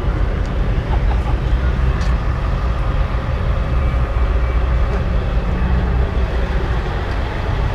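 Caterpillar eight-cylinder engine of a three-wheeled motorcycle running steadily, with most of its sound low-pitched.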